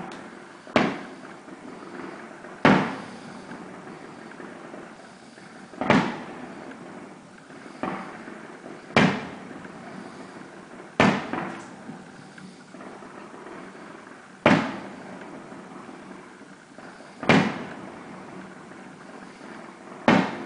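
Fireworks shells bursting, about nine sharp bangs one to three seconds apart, each trailing off in an echo, over a steady background hum.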